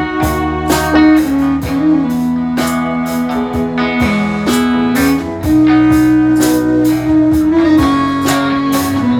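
Live band playing an instrumental break in a slow blues song: strummed guitar and a sustained lead melody over a bass line, with regular strokes marking a steady beat.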